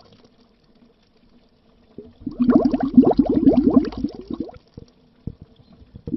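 Air bubbles burbling underwater: after a quiet start, a dense run of short blips, each gliding upward in pitch, for about two seconds, then a few single pops before the bubbling starts again at the end.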